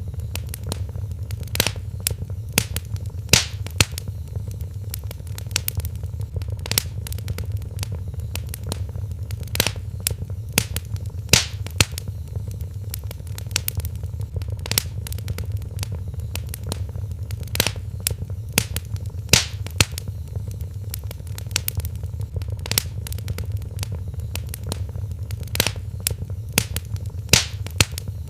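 Wood fire burning in a fireplace, crackling with many small irregular snaps and an occasional louder pop over a steady low rumble.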